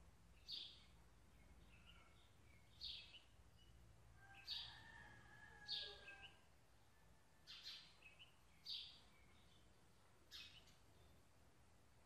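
Soft, short high-pitched bird chirps, about eight of them spaced irregularly over a quiet background, one pair coming close together a little past the middle.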